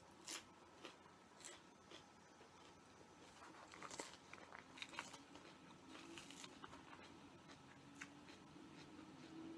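Faint eating sounds close to the microphone: soft chewing with scattered small clicks and crackles, a few clustered about four to five seconds in.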